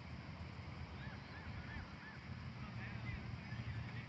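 A bird calling: four short rising-and-falling calls in quick succession about a second in, then a few higher calls near the end, over a steady low outdoor rumble.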